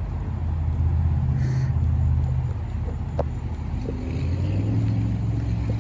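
An engine running steadily at low speed, a deep hum whose pitch rises slightly about two-thirds of the way through, with a faint click near the middle.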